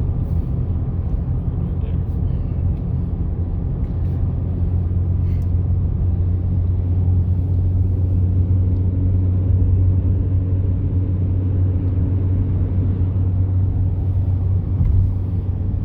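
Steady low drone of road and engine noise heard inside a vehicle cruising on the highway, swelling slightly midway.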